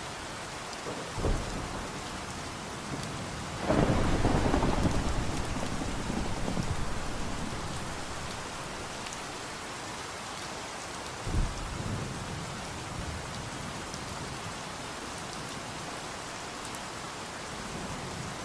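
Steady rainfall with thunder: a short low rumble about a second in, a loud rumble near four seconds that fades away over several seconds, and another brief clap near eleven seconds.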